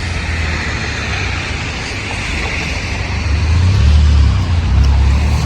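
City street traffic: a steady hiss of passing cars, with a vehicle engine's deep rumble growing louder about halfway through.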